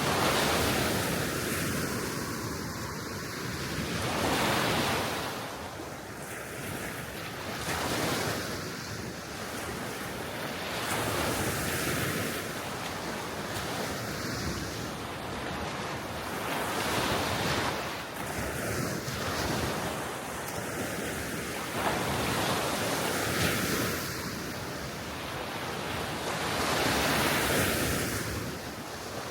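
Small waves breaking and washing on a sea shore, surging and easing every few seconds, with wind blowing across the microphone.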